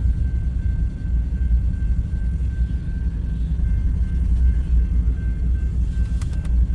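Steady low rumble of diesel freight-train locomotives, with a faint constant whine above it and a few light clicks near the end.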